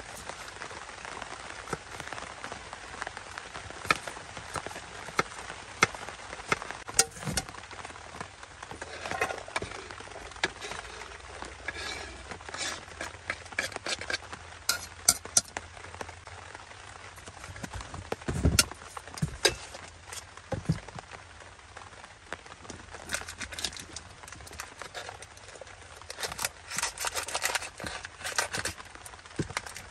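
Steady rain hiss, with scattered light clicks, clinks and knocks of gear being handled, and one deeper thump about two-thirds of the way through.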